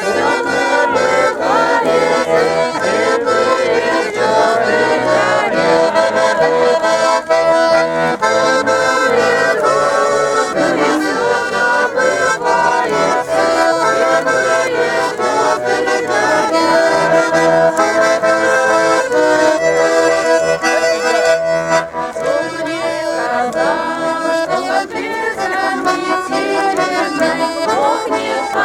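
Accordion playing a traditional folk tune, with full sustained chords and a running melody.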